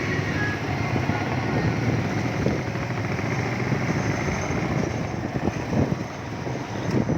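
Motorcycle engine running steadily while riding, with rumbling road and wind noise.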